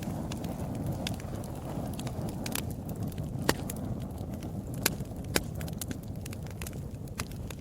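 Wood fire in a fireplace burning, with a steady low rumble of flames and irregular sharp crackles and pops; the loudest pops come around the middle.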